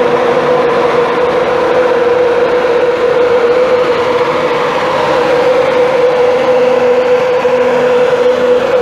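Train running close by with a steady, loud droning hum.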